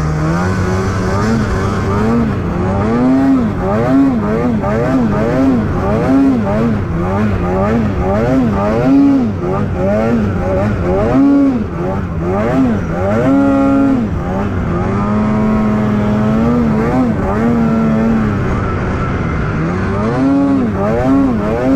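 Snowmobile engine revving up and down over and over as the throttle is worked, its pitch rising and falling about once a second, with a couple of longer steady stretches midway.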